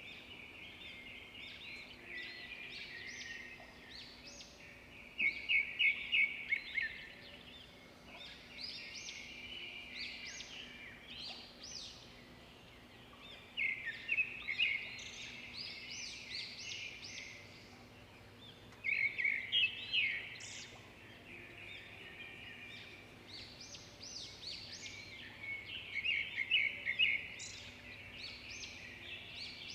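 Songbirds singing and chirping, with louder clusters of quick repeated notes every several seconds.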